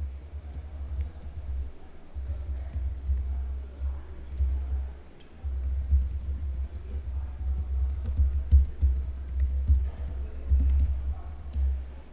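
Typing on a computer keyboard: quick, irregular key clicks, with low thumps from the keystrokes reaching the microphone.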